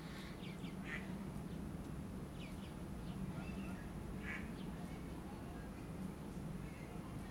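Birds calling from time to time with short, high chirps, a few times, over a steady low hum.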